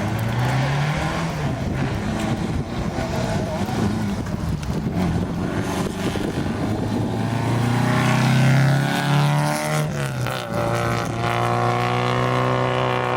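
Rally car engine at full throttle on a gravel special stage, changing pitch through gear changes as it approaches. It is loudest about two-thirds of the way in, drops in pitch as it passes at around ten seconds, and then pulls away accelerating.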